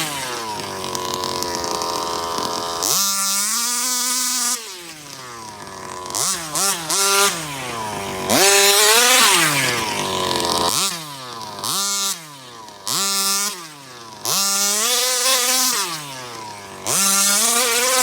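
Rovan 34cc two-stroke engine in a 1/5-scale Baja RC car revving hard through about eight full-throttle bursts. Each time the engine note climbs, then drops away as the throttle is let off.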